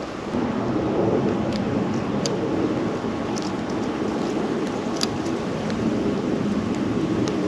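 Steady wind rush on an outdoor microphone that swells about half a second in, with a few faint high ticks scattered through it.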